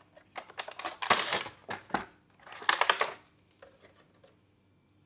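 Funko Pop packaging being handled: plastic and cardboard crackling and crinkling in several quick bursts over about three seconds.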